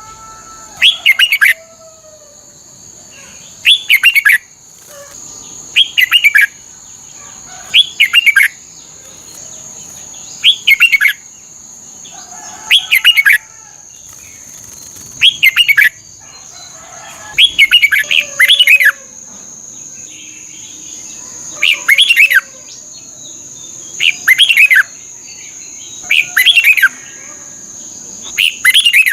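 Red-whiskered bulbul singing: short, loud phrases of quick warbled notes, repeated every two to three seconds, about a dozen times. A steady high thin whine runs underneath, with fainter lower bird calls between the phrases.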